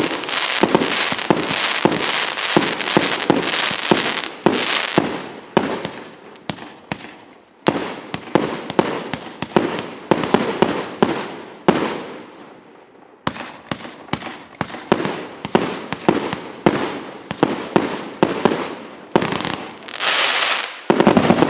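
RS8904 "Two Capitals" firework battery firing, a rapid string of sharp shots and bursts several a second, with two short lulls and a louder, denser flurry near the end.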